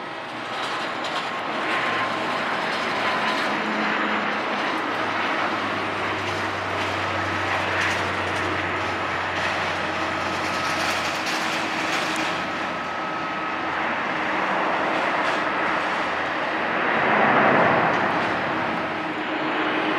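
De Havilland Canada DHC-8-400 (Dash 8 Q400) turboprop landing: a steady engine and propeller drone with sustained tones, swelling louder for a moment near the end.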